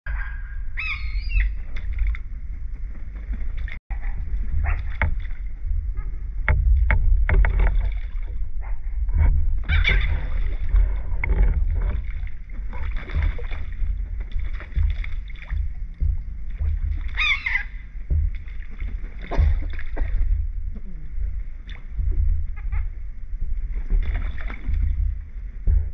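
Seagulls giving a few short, falling cries over a steady low rumble, with scattered knocks.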